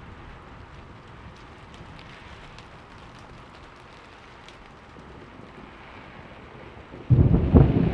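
Steady rain with a few scattered drips. About seven seconds in, a sudden loud clap of thunder breaks in and rumbles on.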